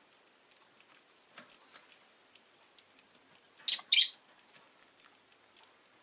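Rosy-faced lovebird giving two short, loud, high chirps in quick succession about halfway through, with faint scattered ticks around them.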